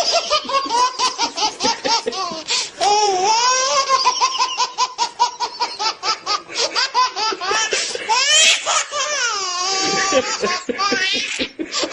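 High-pitched laughter in long runs of quick, rapid pulses, with a few drawn-out squealing notes, sounding like a baby or small child laughing hard.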